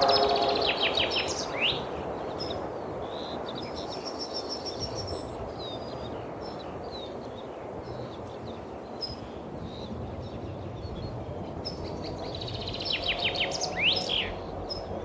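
Songbirds singing: short chirps throughout, and a rapid run of notes ending in a quick sweep about a second in and again near the end, over a steady outdoor hiss.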